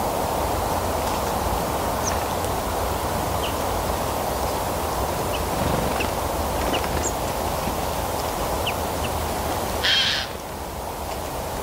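Forest ambience: a steady low rushing noise with scattered short, high bird chirps, and a brief louder burst of sound about ten seconds in.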